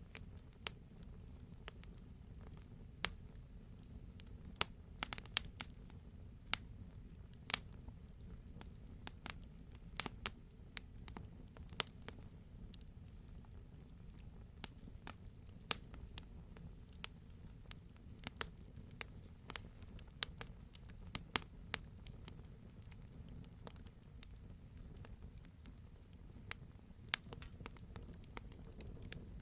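Wood campfire crackling: a steady low rumble of the burning fire with irregular sharp pops and snaps from the logs, a few each second, some much louder than others.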